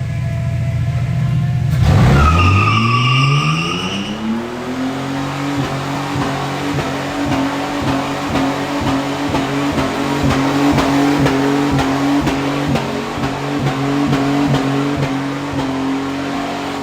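Freshly swapped engine in a Ford AU Falcon revving up sharply about two seconds in, then held at high revs in a long, steady skid, with a brief high squeal as the revs climb.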